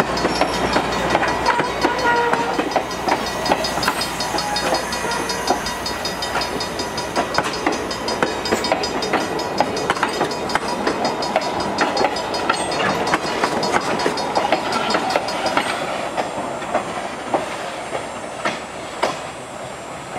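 Passenger coaches of a train rolling past at close range: steel wheels clicking and clattering over the rail joints over a steady rumble. The sound fades slowly as the last car moves away.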